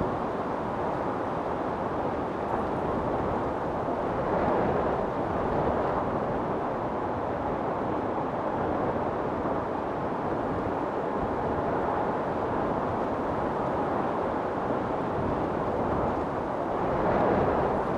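Storm wind blowing hard and steadily, swelling in gusts about four seconds in and again near the end.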